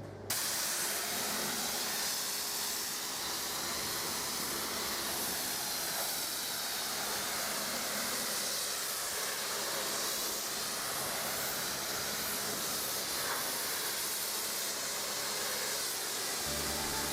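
Steady hiss of water spraying from a hose, rinsing foam off a car. It starts abruptly and holds level without a break.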